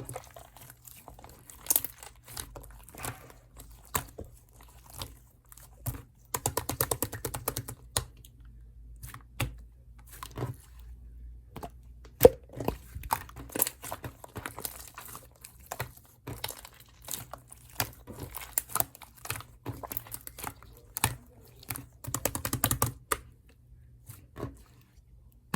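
Yellow clay slime being squeezed, pressed and stretched by hand, giving irregular sticky clicks, crackles and pops, with dense runs of rapid clicking about six seconds in and again about twenty-two seconds in.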